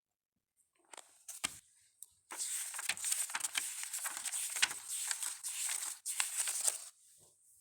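Hands handling small objects: rustling with light clicks, stopping and starting in uneven stretches.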